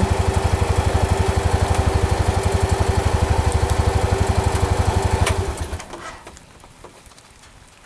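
A vehicle engine idling with a steady, fast, even pulse, which stops about five and a half seconds in.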